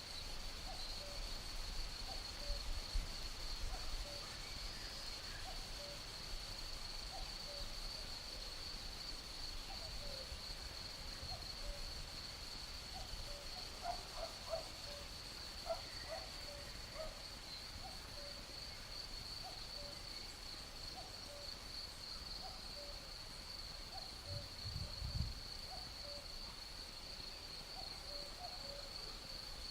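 Cuckoo calling over and over in short hooting notes, over a steady, unbroken high trill of crickets. Brief low gusts of breeze rumble near the start and again about 25 seconds in.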